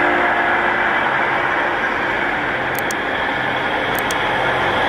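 A train running past close by: a loud, steady rush of rolling noise with a low hum underneath. Twice a quick double click cuts through, a little over halfway in and again near the end.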